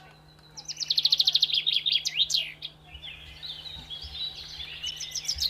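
Birds calling: a fast trill of high, evenly repeated chirps, then a softer jumble of high chattering calls over a faint steady low hum.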